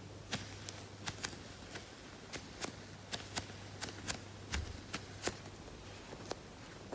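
Irregular sharp clicks and light crackles from hands squeezing and handling a BLOOM mousse tart squishy, a slow-rising foam toy, about two or three a second, over a faint steady low hum.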